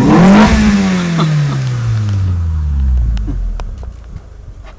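2007 Mitsubishi Eclipse's 2.4-litre four-cylinder engine through a Magnaflow cat-back exhaust, blipped once: the exhaust note peaks about half a second in, then falls back over a couple of seconds as the revs drop to idle, going much quieter near the end.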